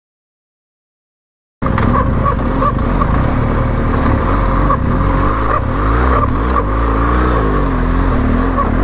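Silence for about a second and a half, then a motorcycle engine running while riding, its pitch rising and falling as the throttle changes.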